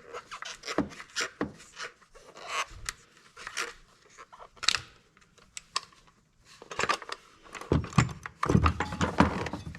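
Irregular clicks, light knocks and scrapes of hand tools and small plastic and metal parts being handled as a Husqvarna 345 chainsaw is taken apart.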